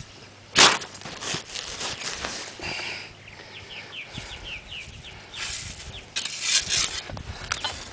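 Digging in packed beach sand with a hand digger: a series of irregular scraping, crunching strokes, the loudest about half a second in and a busy run of them near the end.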